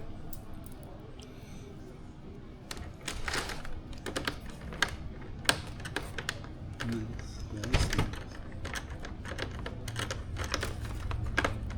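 Irregular light clicks and taps of plastic RC plane parts and screws being handled during assembly, with one sharper click about halfway through, over a low steady hum.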